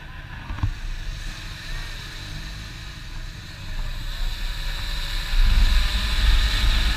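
Wind rushing over the microphone over a low engine rumble, with a short knock near the start; both grow louder from about four seconds in.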